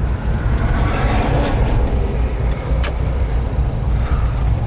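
1997 Dodge Viper's 8.0-litre V10 running with a steady low rumble as the car rolls slowly, heard from inside the cabin. There is a single sharp click a little under three seconds in.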